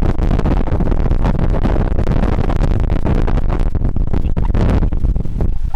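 Strong wind buffeting the microphone through its dead-cat windshield: loud, continuous noise, heaviest in the low end.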